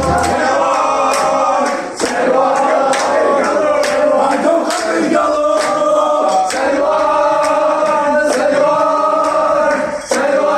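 A crowd of male voices chanting and singing together, with frequent sharp hits like claps or drum beats mixed in.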